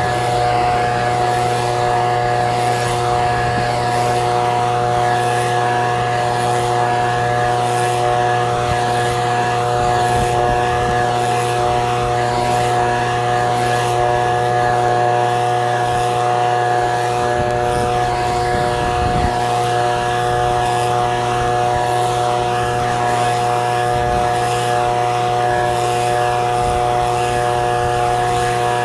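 Echo PB-2620 handheld leaf blower's two-stroke engine running at a steady speed, its pitch holding level throughout.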